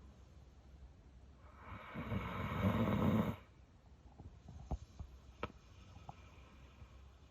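A dog snoring: one long snore that swells over about two seconds and cuts off suddenly. A few faint clicks follow.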